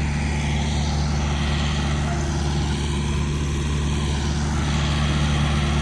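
Thermo King trailer refrigeration unit running steadily under repair, a loud, even engine-and-fan drone as it works to pull the trailer's temperature down.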